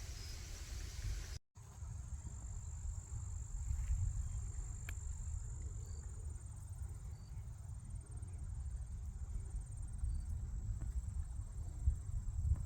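A continuous high-pitched insect trill of cricket-like kind, holding steady after a brief dropout about a second and a half in. A low rumble runs underneath, typical of wind on the microphone.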